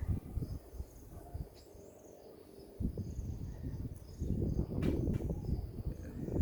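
Insects chirring in a steady, pulsing high-pitched chorus. Bursts of low rumbling noise come and go, strongest from about four seconds in.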